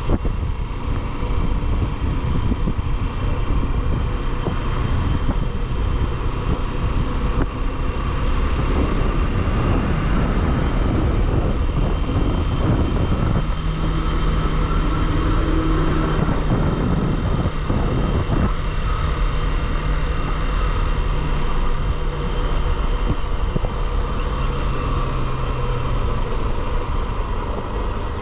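Motorcycle riding on the road: steady wind rush and engine noise, with a low steady hum joining from about halfway through for several seconds.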